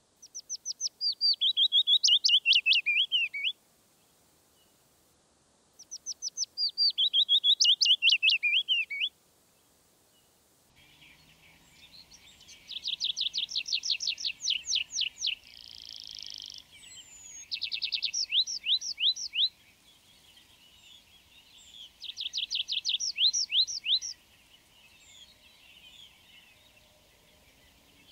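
A willow warbler sings two soft, descending song phrases. Then, from about 11 seconds in, a tree pipit sings phrases of fast repeated notes, with one short buzzy stretch.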